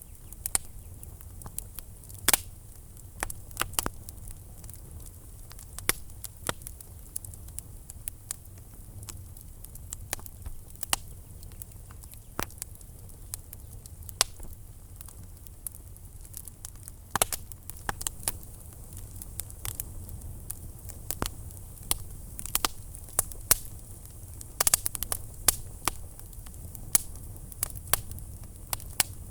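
Fire burning in a fireplace, crackling with irregular sharp pops and snaps over a low steady rumble of the flames. There is a quick cluster of pops a few seconds before the end.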